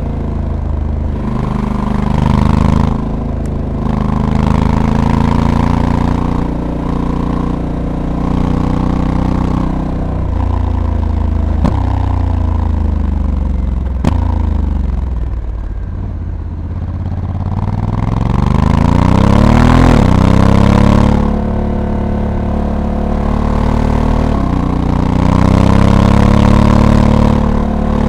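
Honda Africa Twin's 1084 cc parallel-twin engine under way, its revs rising and falling with the riding. The revs wind down over several seconds, with two sharp clicks along the way, then climb again, and a rushing hiss swells at the faster moments.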